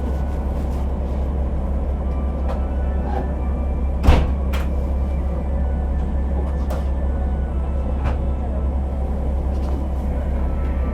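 Cabin sound of a KiHa 47 diesel railcar: the diesel engine running with a steady low rumble, muffled as heard from a phone in a pocket. A single sharp knock comes about four seconds in, with a few fainter clicks.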